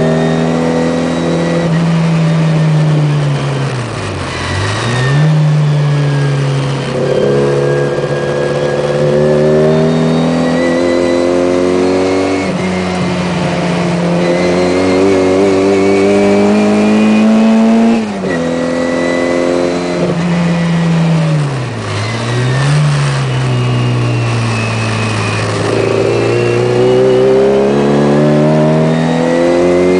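Classic Mini's tuned four-cylinder A-series engine at racing revs, heard from inside the car. The engine note climbs steadily through the gears and drops sharply at each gear change. It dips deeply twice, about 4 and 22 seconds in, then climbs back up.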